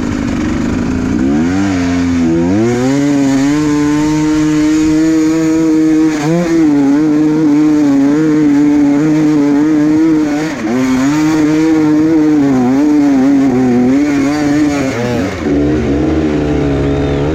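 Enduro motorcycle engine revving hard. It climbs in pitch over the first couple of seconds, then is held at high revs with a wavering pitch, easing off briefly a few times.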